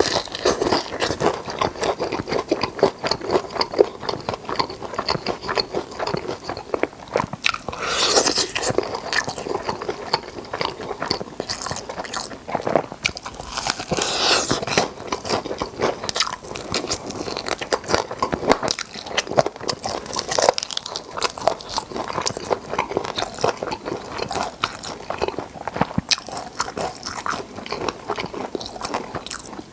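Close-miked biting and chewing of crispy fried chicken drumsticks: a dense, continuous crunching and crackling of the crust, with a few louder crunches.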